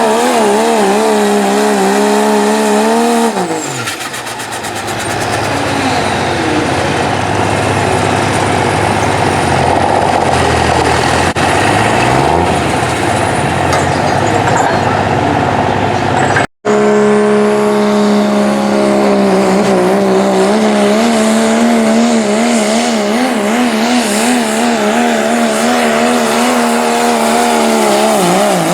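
3.0 diesel 4WD pulling trucks running hard at high rpm. A steady engine note drops away about three seconds in and gives way to rougher, lower running. After a sudden cut, a second engine holds high rpm with a wavering pitch.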